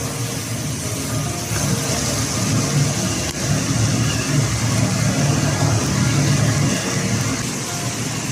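Steady roar of a commercial kitchen's wok burner and exhaust, with a hiss of food frying in the wok while spicy chicken is stir-fried.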